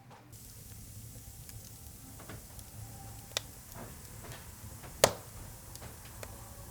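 Wood fire crackling in a fireplace: scattered irregular snaps and pops over a low hiss, with one much louder pop about five seconds in.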